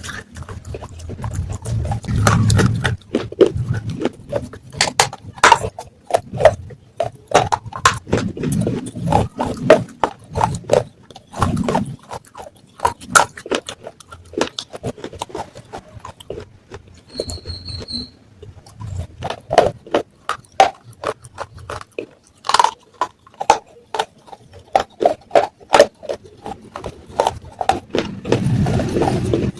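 Pieces of a terracotta matka (clay pot) being crunched: a rapid, irregular run of sharp cracks and snaps, with stretches of low grinding. A brief high beep comes about seventeen seconds in.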